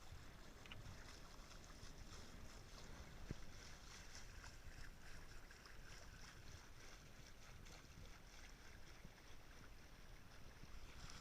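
Faint, steady wash of water and wind around a sailing yacht under way, with a single light tap about three seconds in.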